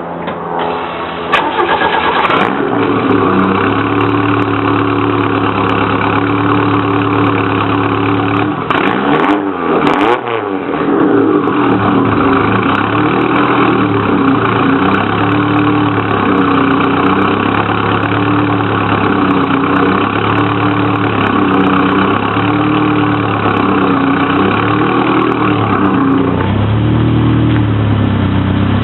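A 1.8-litre SOHC turbocharged engine breathing through a 3-inch exhaust with a Magnaflow race-series straight-through muffler. It starts up about a second in and settles to an idle. Around the middle it is revved once, the pitch rising and falling, then it idles again with a slow, even rise and fall.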